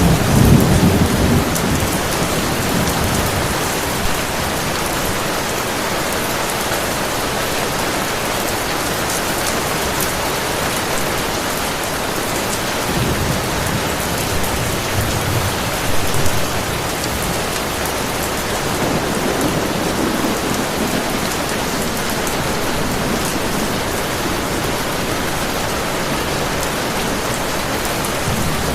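Heavy rain falling steadily, with low rolls of thunder rumbling at the start and twice more around the middle.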